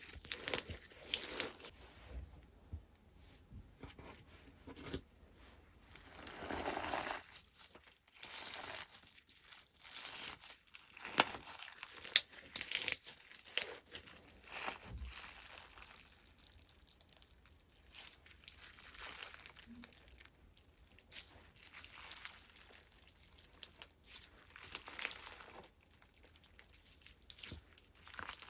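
Slime being squeezed, stretched and poked by hand, giving irregular bursts of crackling, crinkly clicks and pops with short pauses between them.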